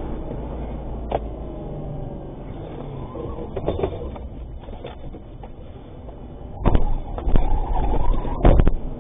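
Vehicle rumble on a low-quality dashcam recording, broken by sharp knocks and bangs. The loudest of them come in a cluster over the last two and a half seconds.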